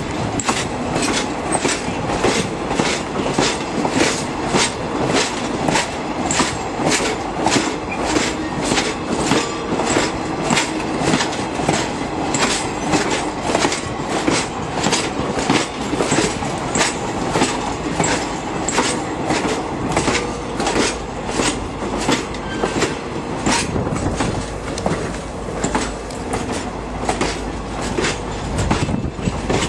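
Excursion passenger train rolling past at low speed, its wheels clicking over the rail joints in an even rhythm of about two clicks a second over a steady rumble.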